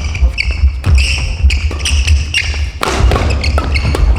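Badminton shoes squeaking on a gym floor, over and over, with sharp racket strikes on the shuttlecock and dull thuds in a large hall.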